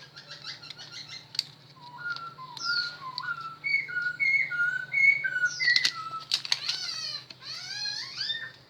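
A songbird singing a varied run of clear whistled notes. It gives quick high falling sweeps, then a stepped series of notes alternating between two pitches, and ends in wavering warbles. A steady low hum and a few sharp clicks sit under the song.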